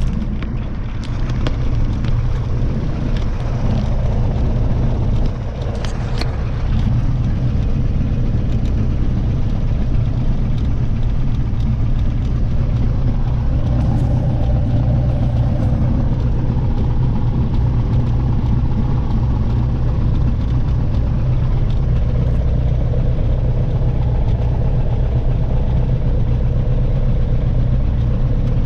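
Light airplane's piston engine and propeller running steadily with a constant low drone. The level dips briefly about five seconds in, then settles slightly louder.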